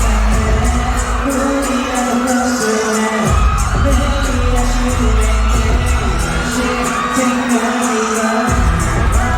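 Live K-pop concert performance: a male vocalist singing over a loud backing track with a steady beat and heavy bass, which drops out briefly twice.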